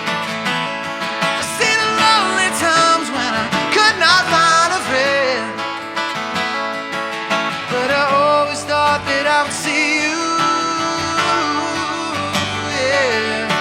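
Acoustic guitar played live, with a voice singing long held notes that waver in pitch.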